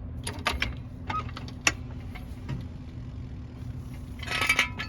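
Metal tools clinking and knocking against the front steering tie rod end as it is worked free from the knuckle: a few sharp clicks early, then a burst of clatter near the end, over a steady low hum.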